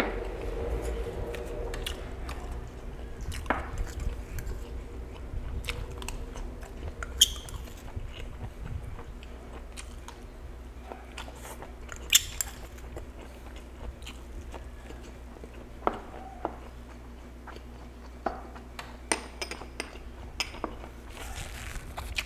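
Close-miked chewing and mouth sounds of a man eating mixed vegetables, green beans and carrots. Scattered sharp clicks come from a plastic spoon on a small glass bowl.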